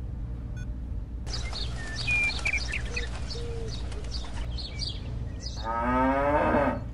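A cow mooing once near the end, a single call that bends in pitch, after a few seconds of birds chirping over a low steady hum.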